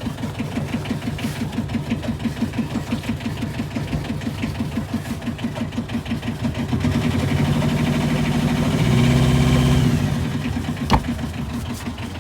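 Boat's inboard diesel engine idling with a steady rhythmic beat, picking up speed and getting louder about seven seconds in, then dropping back to idle about three seconds later. Near the end there is a single sharp knock. It is running alright, just started after the fuel system was cleaned of diesel bug.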